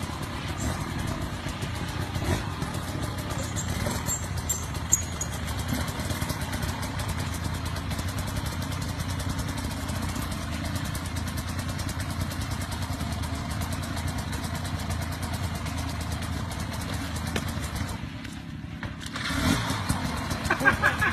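Motorcycle running steadily while being ridden, with engine and road noise. About 18 seconds in the sound drops out briefly, then returns louder and busier.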